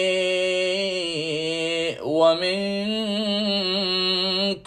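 A male reciter's solo voice chanting an Arabic lament, drawing a syllable out into long ornamented notes. Two long held notes waver in pitch, with a short break for breath about two seconds in, and the voice stops just before the end.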